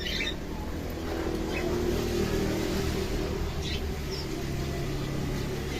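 A motor vehicle's engine running with a steady low hum, while a few birds give short calls over it.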